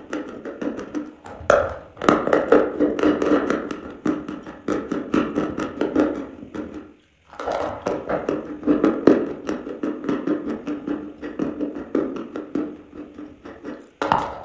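Close-up chewing of dry white chalk: rapid, crisp crunching in the mouth, breaking off briefly about seven seconds in and again just before a fresh bite near the end.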